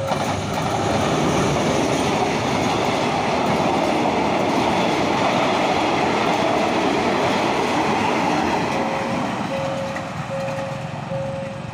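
Diesel-hauled passenger train passing close by, the locomotive and then the coaches rolling past with loud wheel-on-rail noise that builds in the first second and eases off near the end. A steady run of short, regular beeps comes in near the end.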